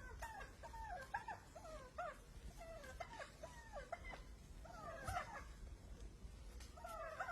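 Turkeys calling: a faint, irregular run of short yelping calls, each a quick bend up and down in pitch.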